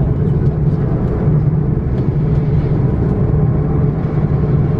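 Steady cabin noise inside an Airbus A330-900, its Rolls-Royce Trent 7000 engines running with a constant low hum.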